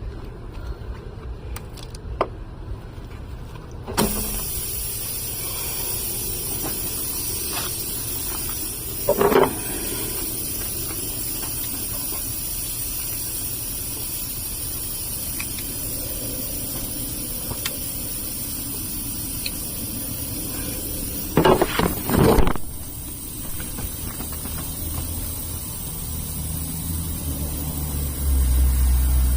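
Steady hiss of compressed air, as when a tire is being inflated through an air chuck. It starts suddenly a few seconds in, has short louder bursts about a third of the way in and again just before it cuts off, and stops abruptly after about eighteen seconds. A low rumble rises near the end.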